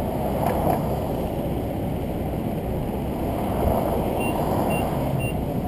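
Steady road and tyre noise from a car on the move, with no brake squeal heard from the Wilwood BP-10 pads. Near the end come three short, evenly spaced electronic beeps.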